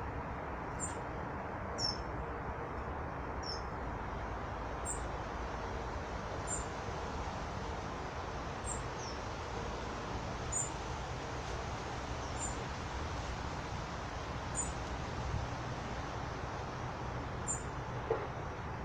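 Small birds giving short, high chirps every second or two over a steady rushing background noise.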